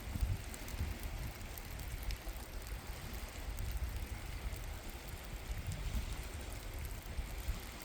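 Steady rain falling, with scattered drop ticks over a continuous hiss and a low rumble.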